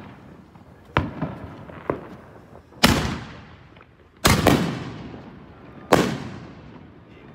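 Aerial fireworks going off: two smaller sharp pops about one and two seconds in, then four loud bangs of shells bursting overhead, two of them in quick succession just past the middle. Each bang echoes away.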